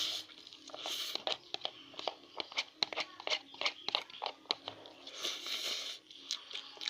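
A person eating Mie Sedaap cup noodles close to the microphone: quick, wet chewing clicks, about three or four a second, broken by longer slurps near the start, about a second in, and again around five seconds in.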